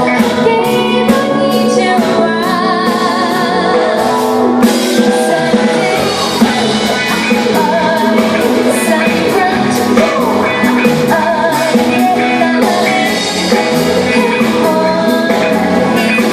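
Live band performing a song: a singer with vibrato over a steady accompaniment, with drum-kit strikes.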